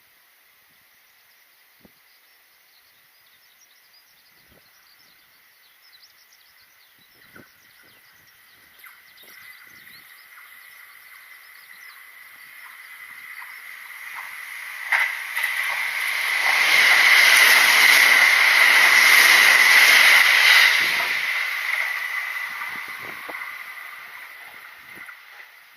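Kintetsu Nagoya Line electric train approaching, passing close by and fading away: the sound builds slowly, with a sharp crack just before it is loudest for a few seconds about two-thirds of the way through, then dies down near the end.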